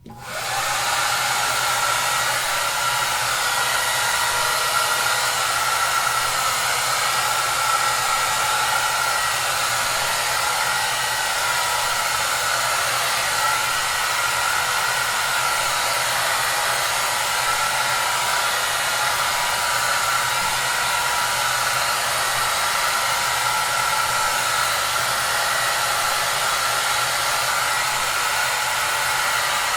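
Hair dryer running steadily: an even rushing hiss of air over a faint low hum and a steady whine. It comes up out of silence in the first half second, then holds unchanged.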